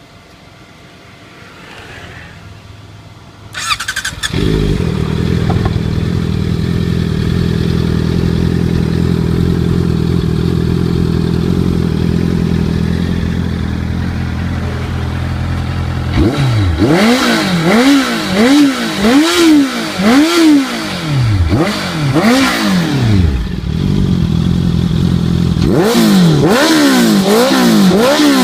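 Honda CBR650F's 649 cc inline-four engine breathing through a titanium slip-on exhaust: it starts up about four seconds in and idles steadily, then is revved in a string of quick throttle blips, each rising and falling, with a short return to idle between two runs of blips.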